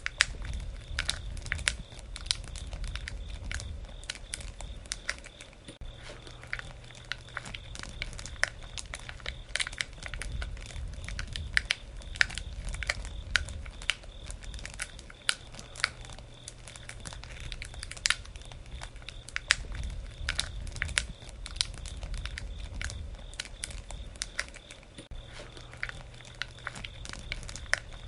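Campfire burning: wood crackling and popping in many sharp, irregular snaps over a low, steady rumble of the flames.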